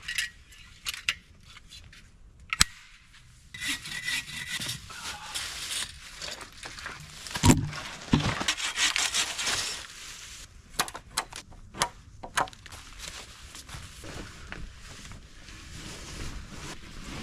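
Wood being cut with a hand saw in runs of quick strokes, broken by several sharp knocks of wood on wood, as a new roof beam is cut and fitted.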